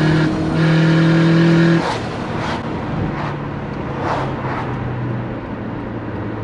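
Subaru Forester's turbocharged EJ20 flat-four pulling loud under throttle at a steady pitch. Just under two seconds in the throttle is lifted, and the engine falls back to a lower, quieter run.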